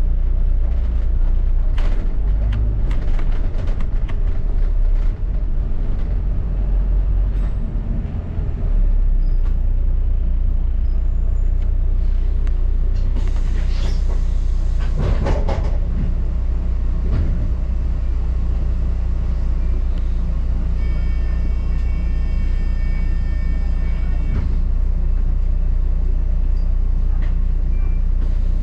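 Double-decker bus heard from inside while driving: a steady low rumble of engine and road noise. About halfway through there is a louder swell of noise. Later a steady high tone with overtones sounds for about three seconds.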